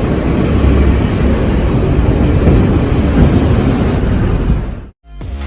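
Train running, a loud steady noise heavy in the low end, which cuts off suddenly near the end.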